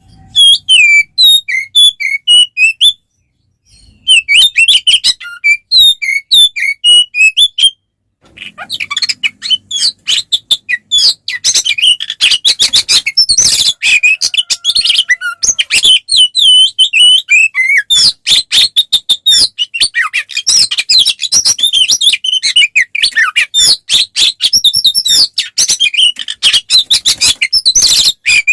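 Oriental magpie-robin (kacer) singing loudly in fast, varied chirping phrases: the aggressive fighting song (tarung) that keepers play to provoke other kacers. Two short phrases with brief pauses open the stretch; after that the song runs on without a break.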